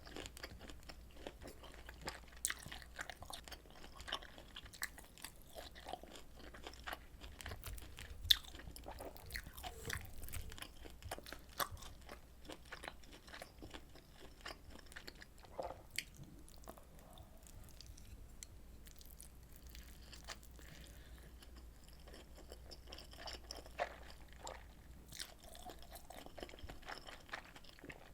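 Close-miked chewing and biting of rolled omelet and pork kimchi stew, with wet smacks and crunchy crackles and many small clicks. A single sharp click about eight seconds in is the loudest sound.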